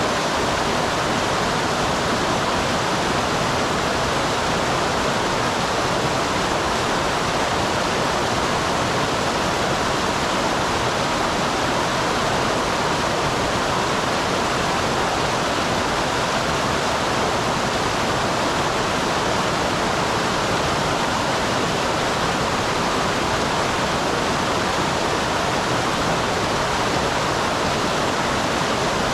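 Small waterfall in a mountain stream: a steady rush of falling and running water, unchanging throughout.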